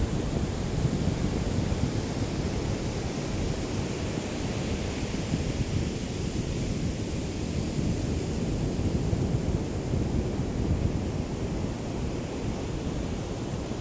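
Gentle waves of a calm sea lapping on the shore in a steady wash that swells a little now and then, with low wind rumble on the microphone from a light breeze.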